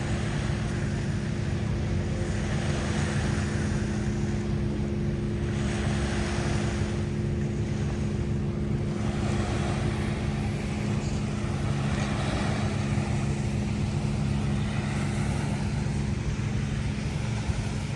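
A steady motor hum with waves washing and wind buffeting the microphone; the higher hum tone fades out near the end.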